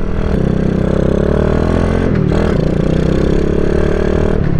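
Hawk 250 dual-sport motorcycle's single-cylinder engine accelerating under way, its pitch climbing, dipping at an upshift about two seconds in, then climbing again to another shift near the end.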